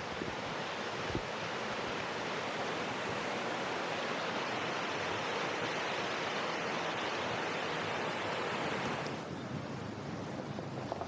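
Steady rushing of a mountain stream. About nine seconds in the higher part of the rush drops away abruptly. A single soft knock about a second in.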